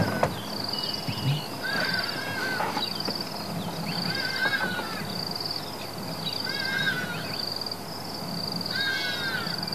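A bird gives a short harsh call four times, about two seconds apart, over a steady pulsing insect trill.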